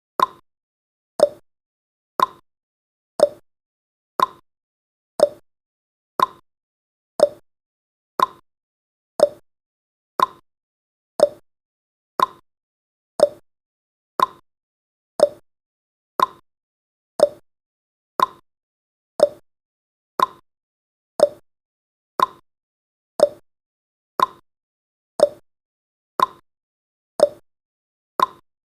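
Countdown timer's tick sound effect: a short, sharp tick once every second, evenly spaced, each dying away quickly.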